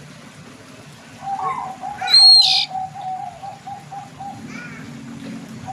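Oriental magpie-robin singing: a quick run of short, low repeated notes, with a loud, high whistled phrase about two seconds in.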